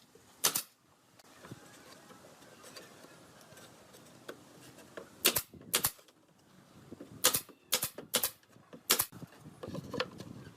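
About eight sharp strikes, single and in quick groups of two or three, of nails being driven into wood.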